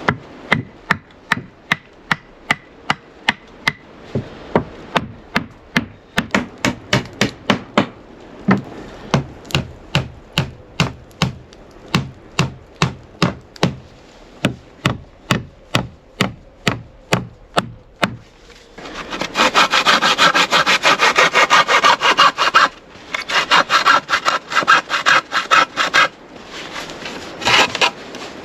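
A hand tool working wood: rhythmic scraping strokes about two to three a second, then a faster, denser run of strokes for several seconds before the slower rhythm returns.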